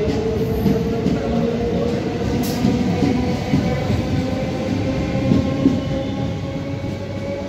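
Electric multiple-unit local train moving along a station platform: a steady hum from the motors over a continuous rumble of wheels, with scattered wheel knocks on the rail joints.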